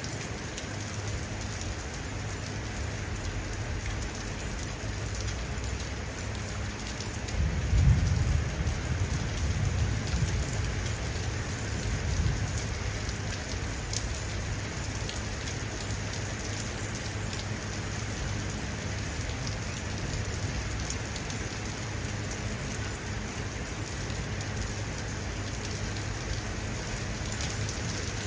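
Steady rain falling, with a low rumble of thunder swelling up about a quarter of the way in and dying away over a few seconds.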